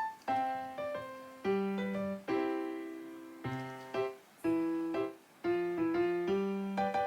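Background piano music: single notes and chords, each struck sharply and then fading, in an unhurried melody.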